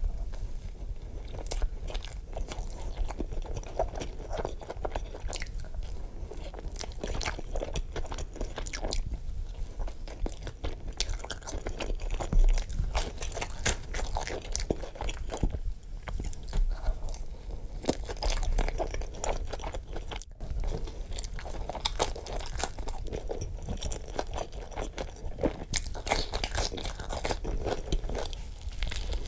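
Close-miked biting, crunching and chewing of a cheese pizza slice, with many irregular wet mouth clicks and one dull thump near the middle.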